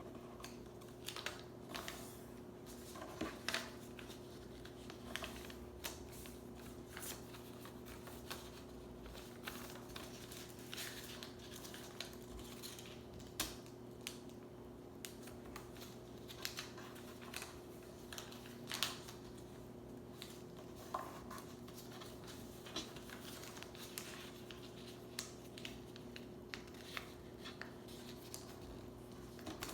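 Sheet of paper being folded and creased by hand: irregular short rustles, crinkles and light taps, with a steady low hum underneath.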